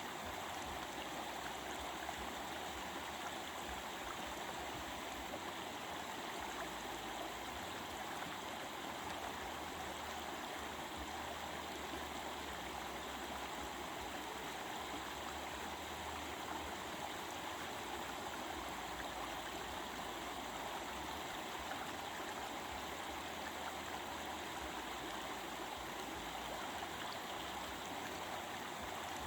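A stream babbling steadily, an even, unbroken rush of running water.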